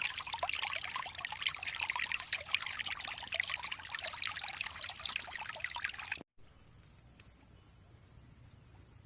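Water trickling and splashing steadily, with many small bright droplet sounds. It cuts off abruptly about six seconds in, leaving only a faint hiss with a thin high steady tone.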